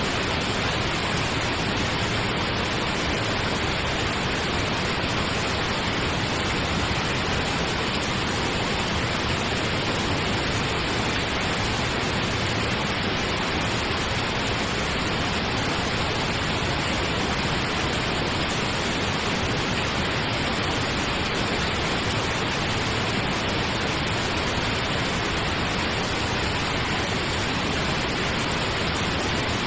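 Steady pink noise: an even hiss that does not change, played as a sleep sound.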